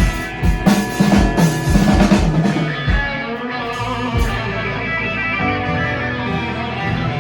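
Live rock band playing: electric guitar and drum kit, the drums stopping about three seconds in while the guitar chords ring on.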